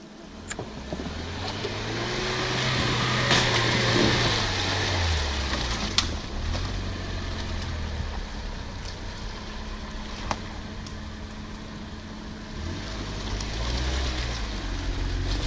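Off-road 4x4's engine revving under load, climbing for a few seconds with a rushing noise of tyres working the ground, easing off, then revving again near the end; a couple of sharp knocks in between.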